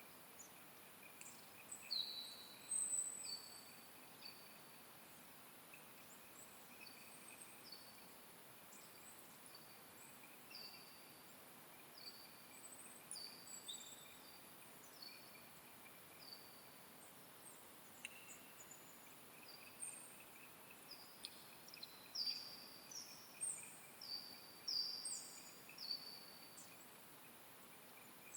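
Small birds calling in a forest: many short, high chirps, each dropping quickly in pitch, scattered throughout and busiest near the end. A faint, steady, high-pitched buzz sits underneath.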